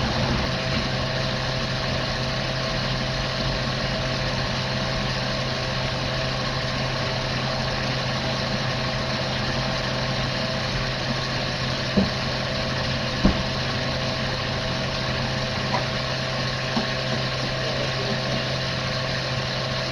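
Ford Crown Victoria's V8 engine idling steadily, with two short light clicks about two-thirds of the way through.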